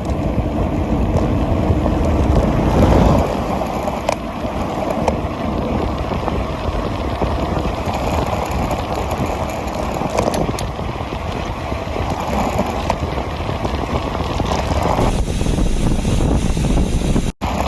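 Wind buffeting the microphone and a bicycle rolling fast downhill, a steady rushing noise with occasional small clicks and rattles. It cuts out for an instant just before the end.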